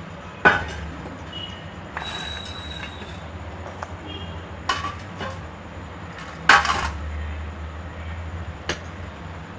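Metal kitchen vessels and utensils clanking as jaggery is put into a pan: four or five sharp knocks, the loudest about six and a half seconds in, with a short ring after it.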